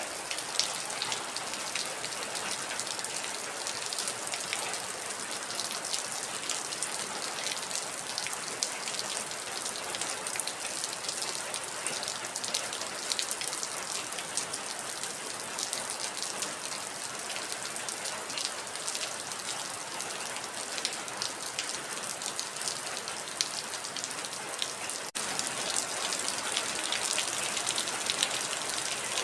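Heavy rain falling steadily, a dense patter of drops hitting a surface. About 25 seconds in there is a split-second break, after which the rain is slightly louder.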